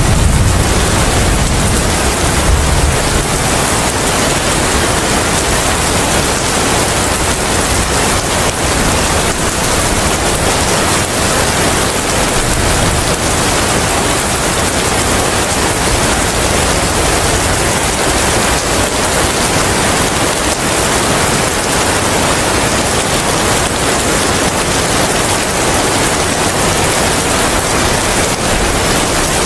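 Steady heavy rain with wind, an even unbroken hiss. A low rumble dies away about three seconds in.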